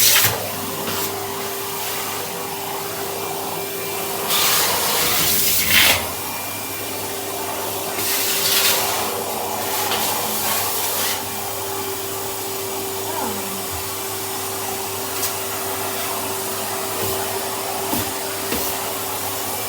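Vacuum cleaner running steadily with a brush attachment: a constant motor whine under loud rushing suction hiss, which grows louder twice, around five and around nine seconds in.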